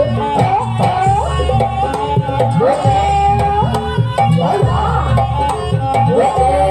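Live Banyuwangi-style Javanese dance music: a melody line with sliding, bending notes played over quick kendang hand-drum strikes and sustained low tones.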